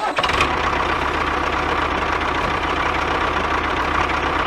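An engine running steadily at idle with a fast, even low putter, starting abruptly at the outset.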